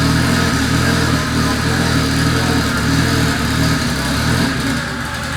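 Acura Integra's B-series four-cylinder engine running steadily at idle.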